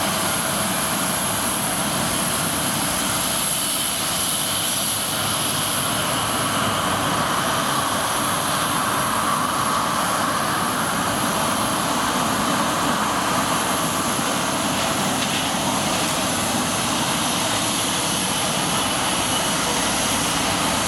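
Jet engine noise of a Boeing 777-300ER's GE90-115B turbofans as the airliner comes in to land: a steady rush with a high whine over it.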